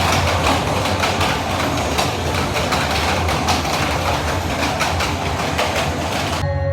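Subway train running, a loud steady rumble and rattle with faint clatter throughout. It cuts off abruptly near the end.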